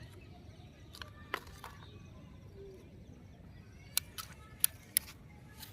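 A handful of sharp, short clicks or taps over a faint steady background. Two or three come about a second in, and four louder ones come close together in the last two seconds.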